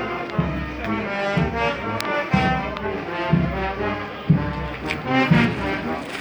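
Brass band playing a march, brass melody over a bass drum beating about once a second. A single sharp crack about two seconds in.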